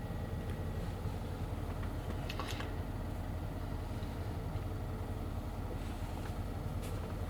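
Mercedes ML63 AMG V8 engine idling steadily, with one brief click about two and a half seconds in.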